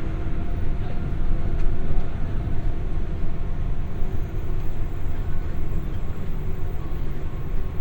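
Running sound inside a JR West 201 series electric train's motor car (MoHa 201) at speed: a steady low rumble of wheels and running gear on the rails. A faint whine is heard in the first couple of seconds and then fades.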